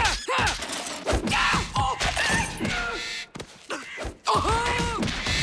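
Cartoon scuffle sound effects: short bending cries and squawks mixed with thumps and knocks, and a longer drawn-out cry near the end.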